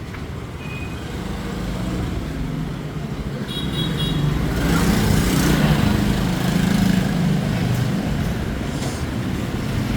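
Street traffic of motorbikes and scooters passing close by, a steady rumble of engines that swells about halfway through, with a brief high beep about three and a half seconds in.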